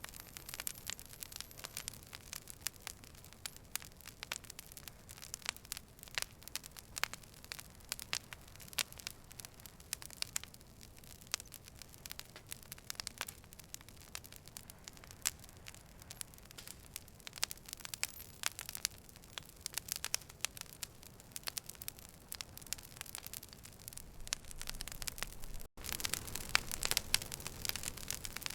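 Campfire crackling: irregular sharp pops and snaps over a low steady hiss. About 25 seconds in there is a momentary dropout, and the hiss is louder after it.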